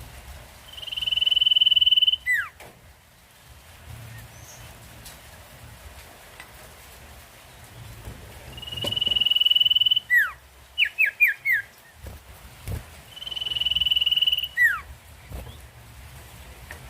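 Common iora (sirtu) singing three long, steady, high whistles, each ending in a quick falling note. After the second whistle it gives a quick run of four short falling chirps.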